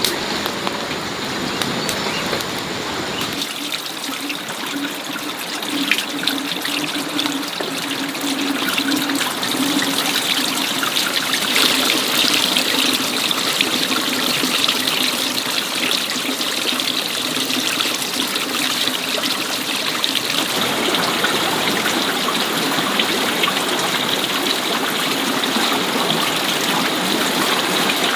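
Steady rush of running water. The sound changes abruptly about three seconds in and again about twenty seconds in.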